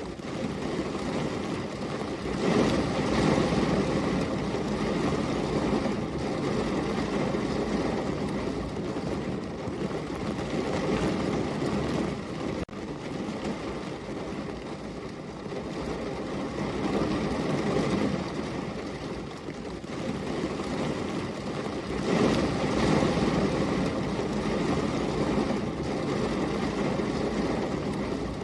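Steady rain falling, swelling louder for a few seconds twice.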